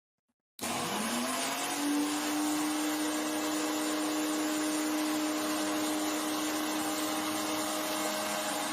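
2200 W high-speed countertop blender switched on about half a second in: the motor spins up with a rising whine, then runs at a steady high pitch under a strong rushing noise. The jar is running empty, before anything is put in to grind.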